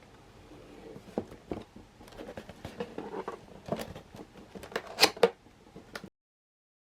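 Irregular clicks, taps and knocks with soft rustling, like objects being handled. The sharpest pair comes about five seconds in, and the sound cuts off abruptly to dead silence about a second later.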